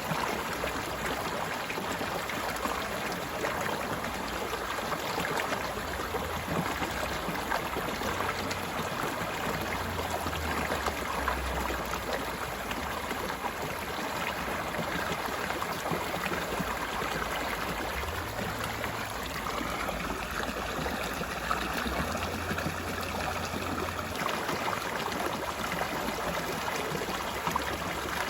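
Stream water flowing and babbling steadily over rocks. A faint droning tone rises and then holds for a few seconds about two-thirds of the way in.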